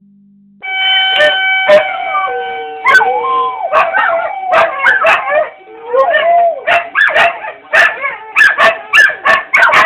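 Huskies howling, then breaking into a rapid run of short yips and barks from about three seconds in, over a steady single-pitch tornado siren.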